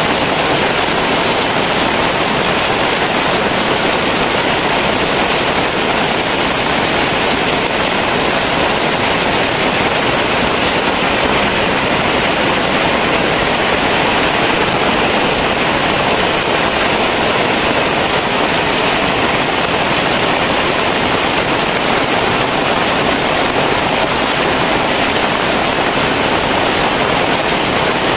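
Very heavy rain falling in a steady, even downpour.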